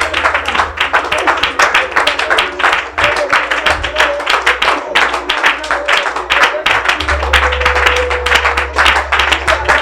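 Congregation clapping continuously over music, with a steady low bass note underneath.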